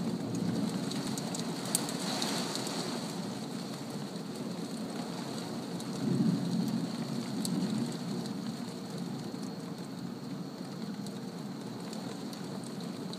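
Heavy thunderstorm downpour: a steady hiss of rain on leaves and pavement, with scattered sharp drips close by. It swells louder about six seconds in, then eases back.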